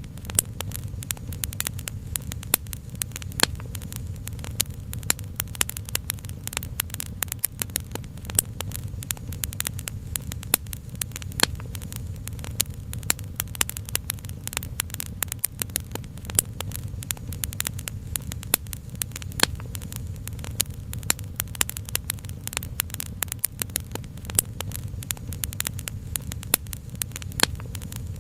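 Wood fire crackling, with frequent sharp pops and snaps several times a second over a steady low rumble.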